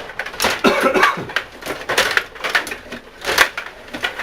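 Stiga table hockey game in play: quick, irregular clacks and knocks of the plastic players being spun and slid on their rods and the puck striking them and the boards. A brief voice-like sound, such as a cough or grunt, comes about a second in.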